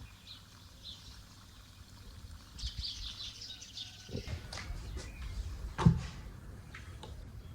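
Small birds chirping in short high calls, with a run of quick chirps about three seconds in, then a few sharp knocks or clatters, the loudest about six seconds in.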